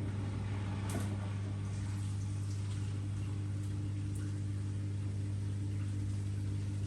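Miele W1 washing machine giving a steady, even electrical hum, a component having switched on suddenly just before, with a couple of faint clicks.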